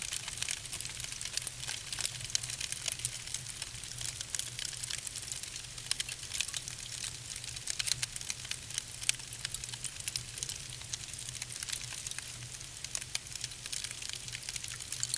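Wood fire in a fireplace crackling steadily: a dense scatter of small sharp pops and snaps over a soft hiss of burning logs.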